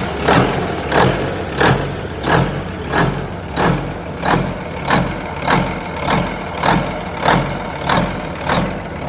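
Cummins diesel engine of a Kenworth W900 dump truck idling cold just after starting, with an even pulse about one and a half times a second running through its note.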